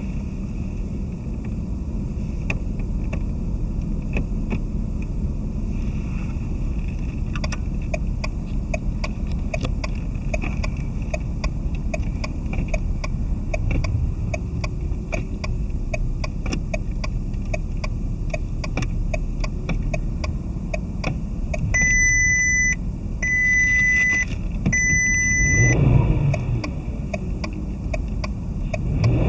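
Volkswagen Touareg's 3.2-litre V6 engine running steadily at idle, with a regular ticking over it. Three short electronic beeps sound about 22 to 25 seconds in, and the engine note swells briefly just after.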